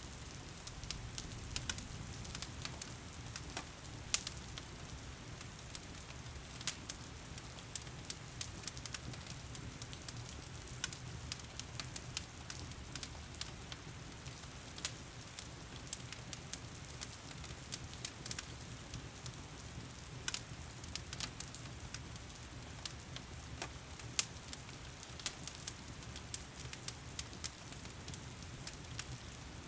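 Wood fire crackling in a fireplace, with frequent irregular sharp pops and snaps, over the steady hiss of heavy rain and a low rumble.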